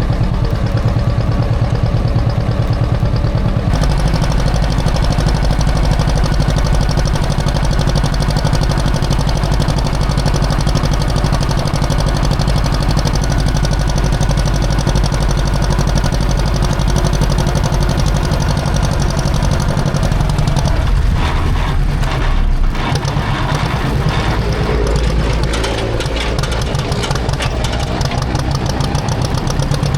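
A John Deere tractor engine running steadily with an even firing beat. Its sound shifts for a few seconds about two-thirds of the way through.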